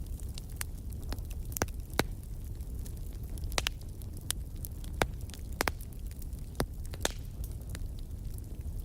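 Fire in a fireplace crackling, with irregular sharp pops, several louder than the rest, over a low steady rumble of the flames.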